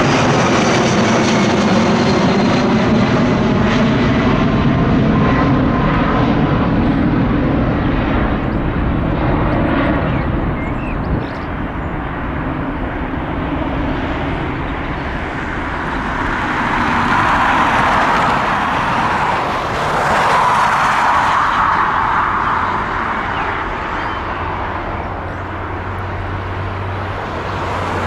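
Boeing 757 jet engines passing: a falling whine at first, then a broad engine roar that swells about two-thirds of the way through and fades.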